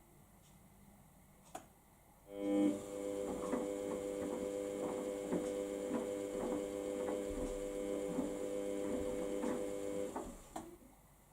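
Samsung washing machine's drum motor starting up and turning the drum during the wash phase. It gives a steady, multi-toned whine with soft regular knocks about twice a second as the load tumbles, then stops abruptly after about eight seconds.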